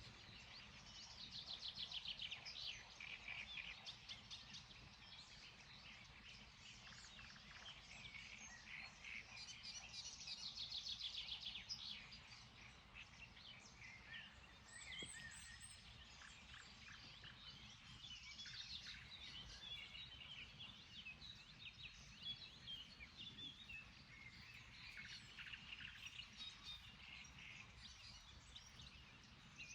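Faint dawn chorus of small songbirds. Trilled songs a few seconds long come back every eight seconds or so, with scattered chirps between them, over a steady low background hum.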